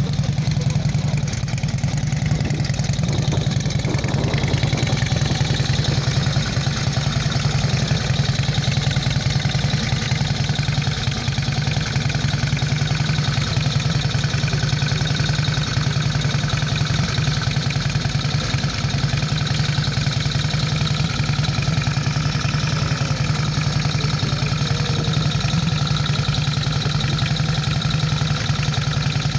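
Indian Chief motorcycle's V-twin engine idling steadily, with an even, unchanging low rumble.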